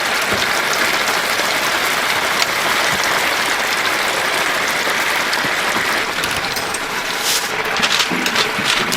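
Chicken deep-frying in a vat of hot oil: a loud, steady sizzle that starts abruptly, with more popping crackles near the end.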